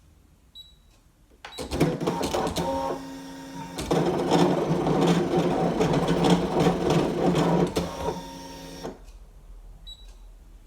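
Brother ScanNCut electronic cutting machine cutting out paper shapes: its motors whir and buzz at shifting pitches with small clicks as the blade carriage and mat move. It starts about a second and a half in and stops about nine seconds in.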